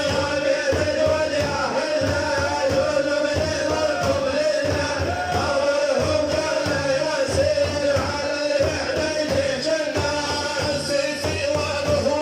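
Sufi devotional praise song with a held vocal note over a steady, dense percussion beat.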